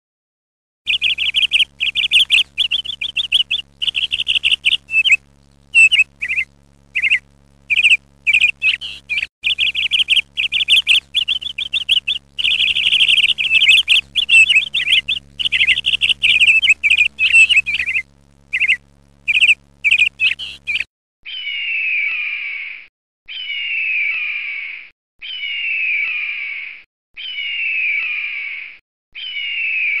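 A recorded bird sings in rapid, broken runs of chirps and warbles for about twenty seconds. Then a different bird takes over, giving a screeching call that falls in pitch, repeated about every two seconds.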